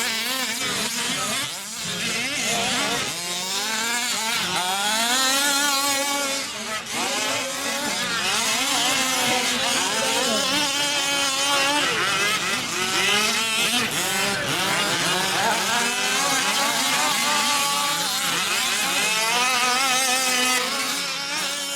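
Several 1/5-scale off-road RC trucks' small two-stroke gasoline engines revving up and down together, their overlapping pitches rising and falling constantly as they race around the track.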